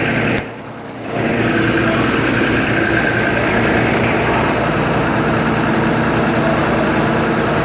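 Vehicle engine idling steadily. The sound drops out briefly about half a second in, then resumes.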